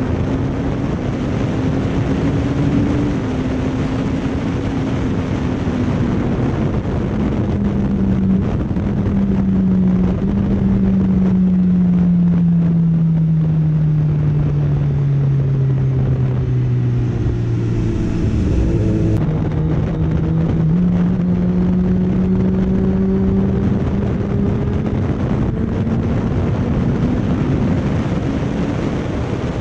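Motorcycle engine running while riding, with wind rushing over the microphone. The engine note falls steadily for several seconds past the middle as the bike slows, then steps back up to a steady cruise.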